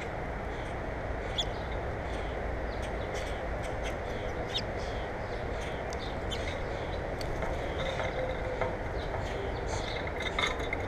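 Small birds giving short, high chirps again and again over a steady background rush.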